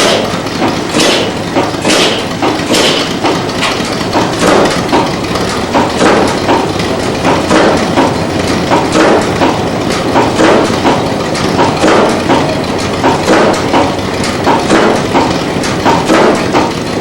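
Engine running with a steady, regular knocking beat, about one to two knocks a second.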